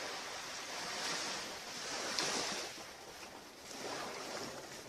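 Ocean surf washing onto a beach, a steady rush that swells and fades in a few surges, loudest just past two seconds in.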